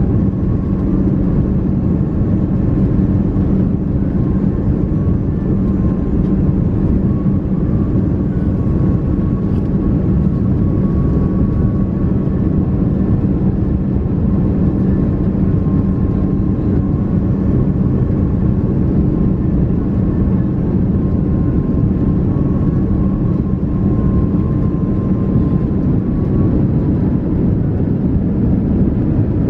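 Steady engine and airflow drone inside the cabin of an Airbus A330-300 airliner, a constant low hum with a faint high whine over it.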